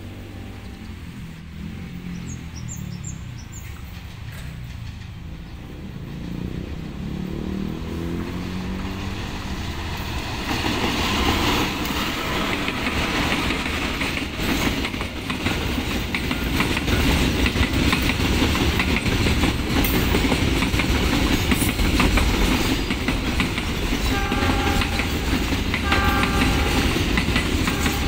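Diesel locomotive of a container freight train approaching and passing close by, its engine growing steadily louder, followed by container flatcars rolling past with a heavy rumble and rapid clickety-clack over the rail joints. Two short horn blasts sound near the end.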